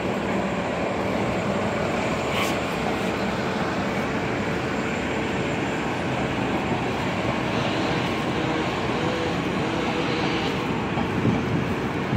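Budd M3A electric commuter train running on the tracks below, a steady rumble with a faint steady hum, mixed with city street noise.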